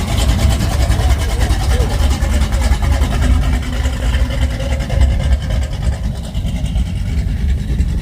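Car engine running with a deep, pulsing low exhaust note, voices mixed in.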